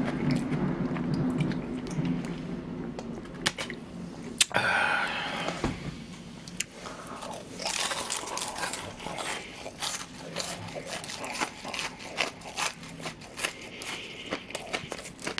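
Close-miked crunching and chewing of deep-fried breaded pork cutlet (donkatsu), the crisp crust cracking in many sharp crunches, thickest in the second half.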